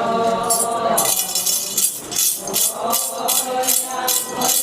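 Chorus voices end a held sung note about a second in, then a metal jingle rattle is shaken in a steady beat, about three strokes a second: the jingling sword (yoksha) that keeps time in a Ponung song-dance.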